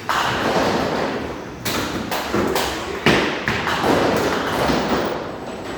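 Bowling alley noise: three loud thuds about a second and a half apart, each trailing off in a rumble and clatter, from bowling balls and pins.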